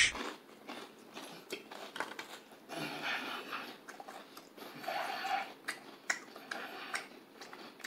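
A person chewing a mouthful of crunchy, sugar-dusted funnel cake, with scattered small crunches.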